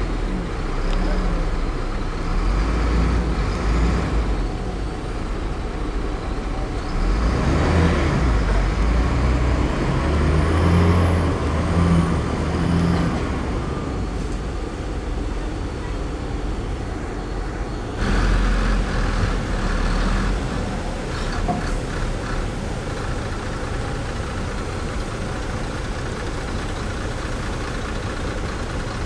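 Heavy diesel engines of earth-moving machinery, a bulldozer and dump trucks, running under load. The engine sound swells for several seconds around a third of the way in and changes abruptly a little past the middle.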